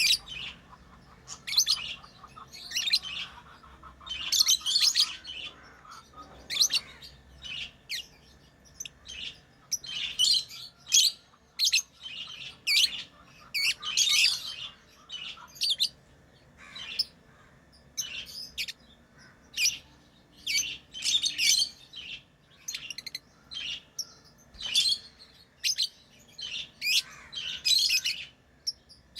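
Pet lovebirds chirping: a steady stream of short, high-pitched chirps coming irregularly, often several in quick succession, with brief gaps between.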